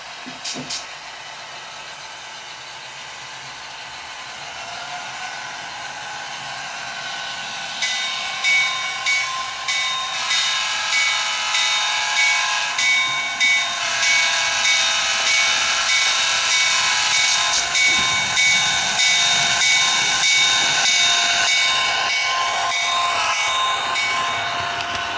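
Model train running on the layout: a steady noise builds up, then about eight seconds in a louder, rhythmically pulsing sound with steady high tones starts and carries on.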